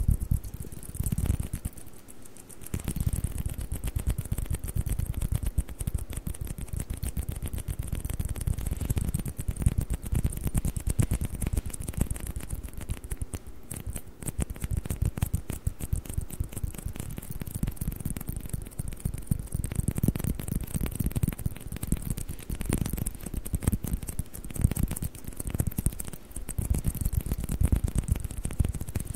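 Fast tapping on plastic table tennis balls: a dense, continuous run of light clicks with soft low thumps mixed in.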